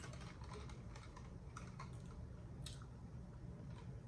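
Faint, scattered light clicks and ticks at irregular spacing, a few per second.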